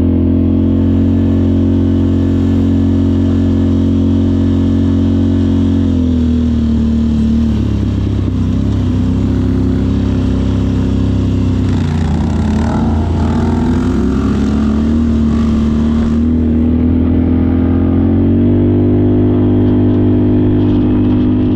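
Off-road vehicle engine running loud at a steady speed. It eases off to a lower pitch about six seconds in, and a noisy rattling stretch follows in the middle. Near the end it picks up to a higher pitch again.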